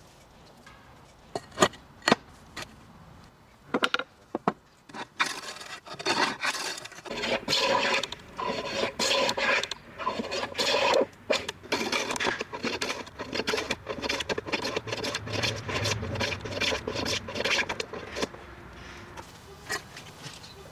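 A few sharp knocks, then a hand tool scraping across wood in quick, repeated strokes for about twelve seconds, fading out near the end.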